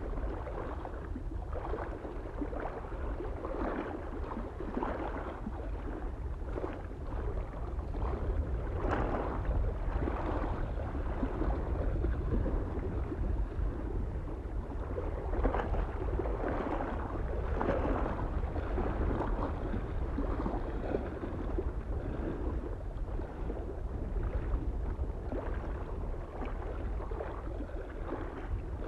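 Small waves lapping and splashing against a lake shore in an irregular, unbroken patter, over a low rumble of wind.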